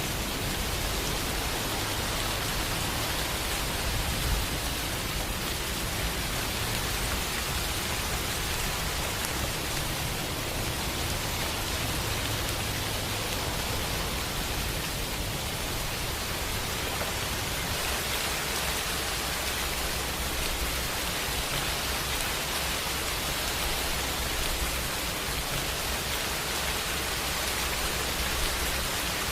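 Steady rain, an even hiss with no let-up, with a low rumble running underneath.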